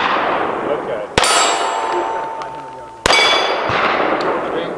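Two pistol shots about two seconds apart on a steel shooting range, each followed at once by a struck steel target ringing and fading away.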